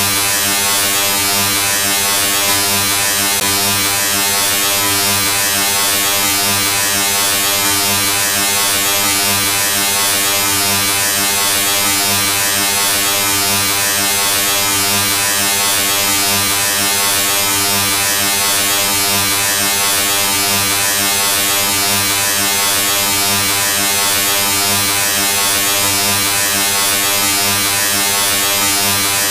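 The Colorama sound effect: a steady electrical buzz with many even overtones over a loud hiss, unchanging throughout.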